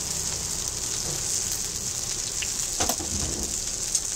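Shredded cabbage, soya chunks and capsicum sizzling steadily in hot oil in a large kadai, with a couple of short knocks partway through.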